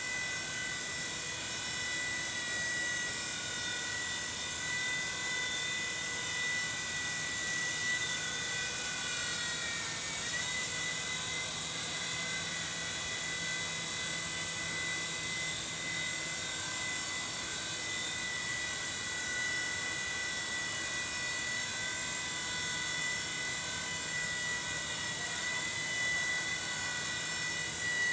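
Small radio-controlled helicopter hovering, its motor and rotors giving a steady high whine that dips briefly in pitch about ten seconds in.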